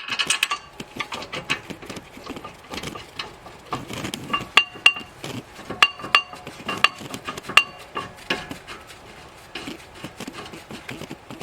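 Irregular metallic clinks and taps of steel tools and bolts, some with a brief ring, as the brake caliper anchor bracket bolts are fitted.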